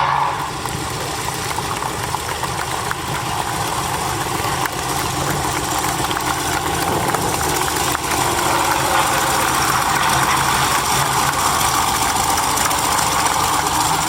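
Piston aero engine of a vintage display aircraft running steadily, growing gradually louder through the first half and then holding.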